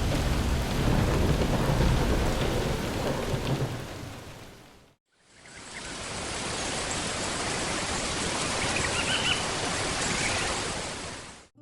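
Heavy rain with low rumbling thunder, fading out about five seconds in. Steady rain hiss then fades in, with a few faint high chirps, and fades out at the end.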